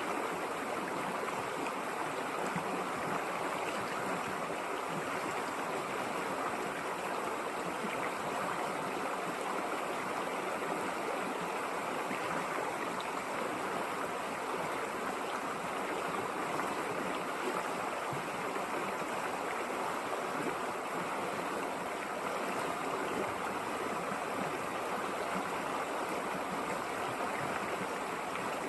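River water flowing and rushing steadily, an even, unbroken sound.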